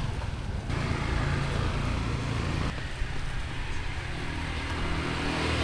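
A motor vehicle's engine running steadily amid street traffic noise.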